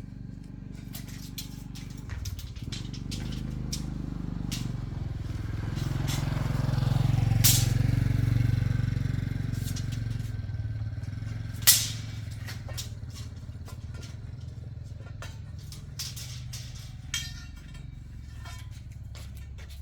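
A low engine rumble that swells to its loudest about seven seconds in and then slowly fades, with scattered sharp metallic knocks and clicks over it, one louder knock about twelve seconds in.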